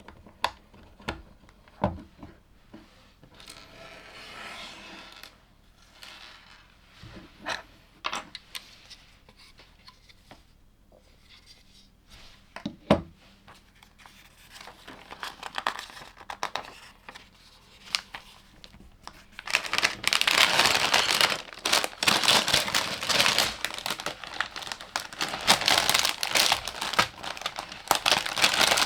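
LEGO pieces clicking as they are handled and pressed together, in scattered single snaps, then from about two-thirds of the way in a long, loud stretch of plastic crinkling as a LEGO parts bag is opened and handled.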